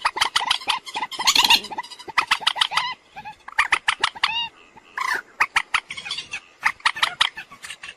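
Common moorhen calling: rapid runs of short, sharp clucking notes, a brief lull about three seconds in, then more runs with a few longer curved calls.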